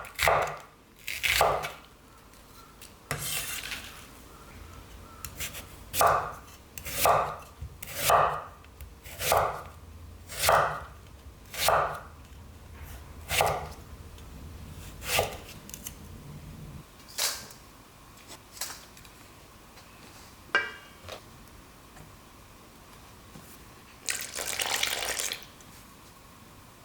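Knife chopping ingredients on a cutting board in single, separate strokes about a second apart, thinning out after about twenty seconds. A short burst of scraping or rustling noise comes near the end.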